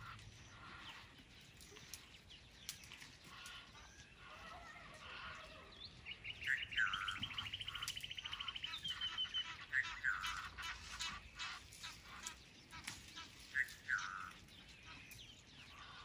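Wild bird calling: a rapid high rattling trill lasting about three seconds, starting about six seconds in, and several short falling notes later on. Scattered sharp clicks and snaps throughout.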